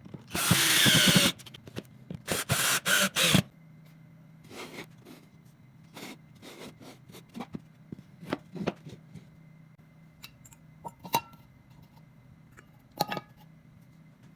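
A handheld power tool, drill-like, runs in a loud burst of about a second, then in three or four shorter bursts, followed by scattered light knocks and clicks of wood being handled.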